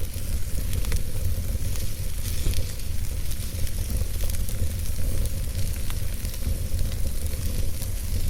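Logs burning in a fireplace: a steady low rumble of the flames with a hiss, broken by scattered sharp crackles and pops.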